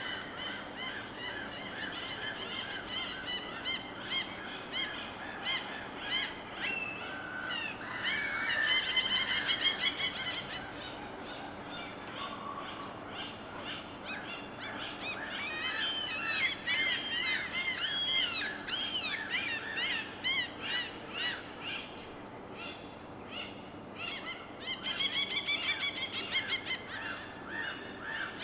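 Many birds calling over one another above a steady faint hiss. Loud, rapid series of calls come about a third of the way in and again near the end, with quicker rising-and-falling notes in the middle.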